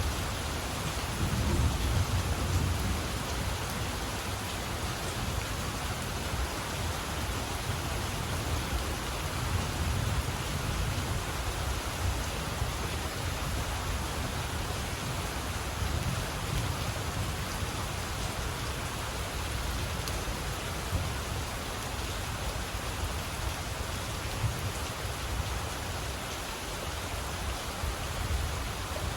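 Steady rain falling, with low rumbles of thunder swelling and fading underneath, strongest in the first few seconds.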